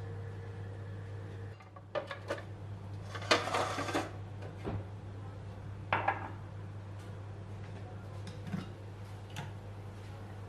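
Dishes and cutlery being handled: scattered clicks and knocks, a longer rattling scrape about three seconds in and a sharp clink about six seconds in, over a steady low hum.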